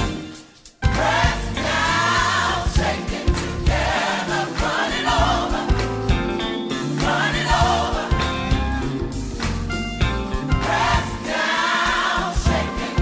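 Gospel choir singing with instrumental backing. The sound drops away almost to nothing at the very start, then comes back in under a second.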